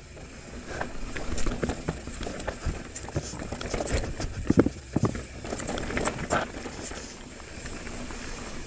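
Mountain bike riding down a rough, rocky trail: tyres running over the ground with irregular knocks and rattles from the bike hitting rocks and roots, the busiest hits about halfway through.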